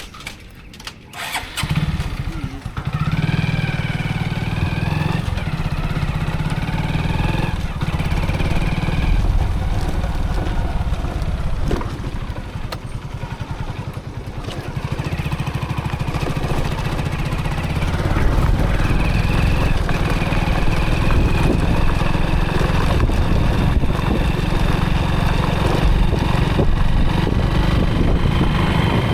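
Motorcycle engine starting about a second and a half in, then running steadily as the bike rides off, getting louder about two-thirds of the way through.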